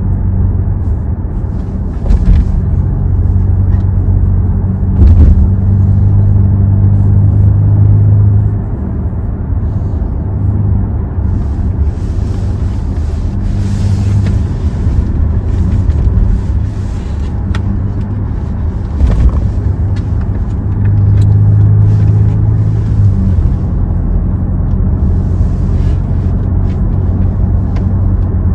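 Hyundai Tucson driving, a steady low engine and exhaust drone with road noise, swelling louder twice for a few seconds.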